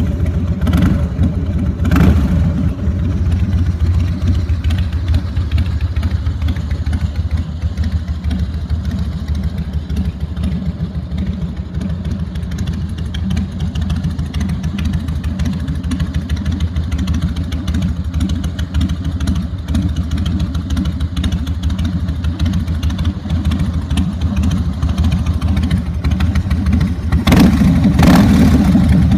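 Year-2000 Harley-Davidson Fat Boy's carburetted V-twin idling through Vance & Hines exhaust pipes with its irregular, heartbeat-like tick-over, just after starting. The throttle is blipped twice in the first few seconds and twice more near the end.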